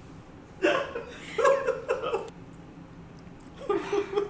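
People laughing in three bursts with a choppy ha-ha rhythm: one about half a second in, a longer one a second later, and a third near the end.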